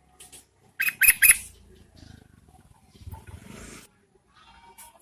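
Yellow-vented bulbul calling: three short, sharp notes in quick succession about a second in, with fainter noise after them.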